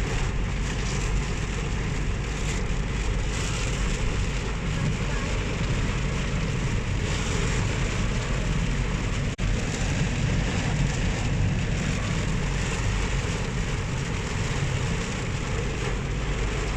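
Steady rush of heavy rain, even and unbroken apart from a momentary dropout about nine seconds in.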